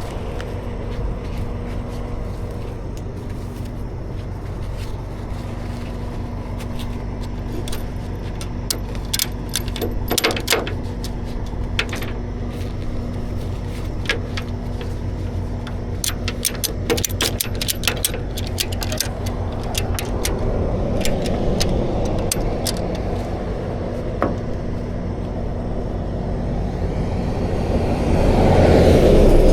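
Tow truck engine idling steadily, with a run of light metallic clicks and rattles through the middle, and a vehicle swelling past on the highway near the end.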